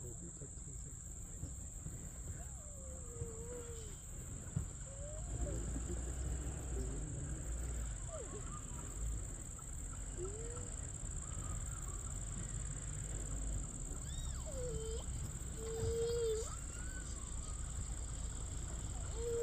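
Steady high-pitched chorus of crickets or similar insects in dry forest, over a low rumble. A few faint short calls or hushed voices come and go, most around two-thirds of the way in.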